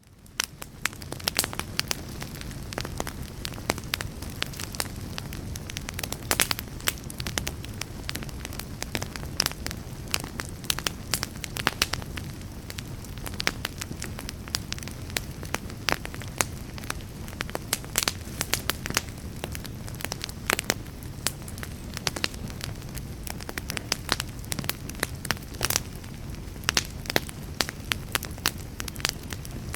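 Wood fire burning in a fireplace: a steady low rumble of flames with frequent sharp crackles and pops of burning wood. It fades in from near silence over about the first second.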